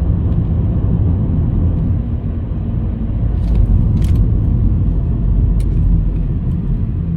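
Car driving on the highway, heard from inside the cabin: a steady low road and engine rumble, with a few faint ticks partway through.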